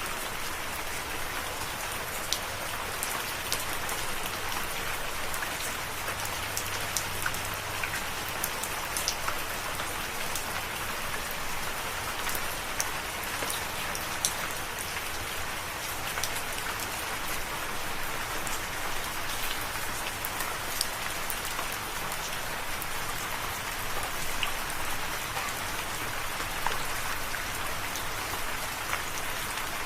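Steady rain falling, an even hiss with many individual drops ticking and pattering on a surface.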